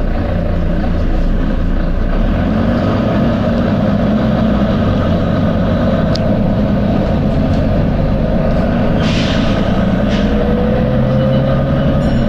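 Volvo B9TL double-decker bus running, with short hisses from its air system about nine and ten seconds in. A whine rises slowly in pitch near the end.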